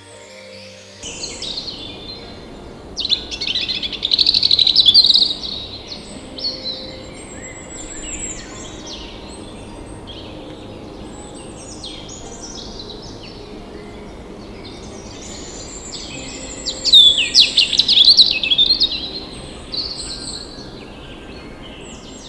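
Several birds chirping and calling over a steady background hiss, with two louder bouts of rapid, overlapping chirps: one a few seconds in and another past the middle.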